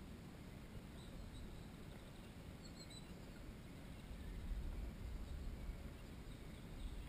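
Faint, thin, high-pitched bird chirps, a few short ones scattered over a quiet woodland background, with a low rumble coming in about halfway through.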